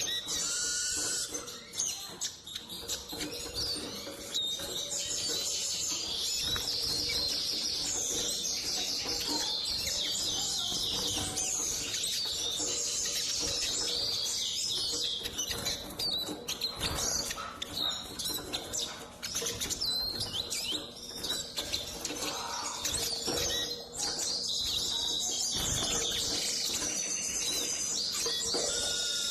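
Eurasian siskin singing: a long, nearly unbroken run of fast high twittering with chirps, trills and short gliding notes.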